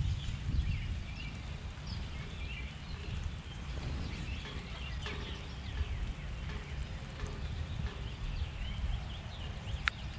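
Small birds chirping and calling in many short, high notes, over a steady low rumble, with one sharp click near the end.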